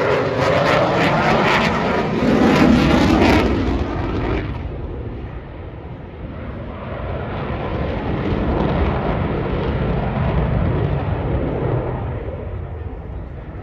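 Eurofighter Typhoon FGR4's twin EJ200 jet engines in a fast, low pass: a loud roar with a swirling, sweeping hiss that peaks about three seconds in. About four and a half seconds in it loses its hiss and goes on as a duller, lower rumble as the jet heads away.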